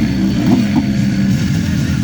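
A car engine running, with a steady low note that wavers slightly in pitch.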